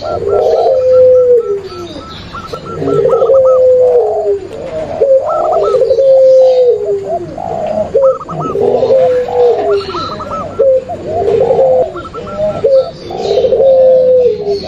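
Several doves cooing together: zebra doves, spotted doves and long-voiced barbary doves (puter pelung). Their coos overlap and repeat every second or two, some sliding down in pitch, with a quicker string of higher notes in places.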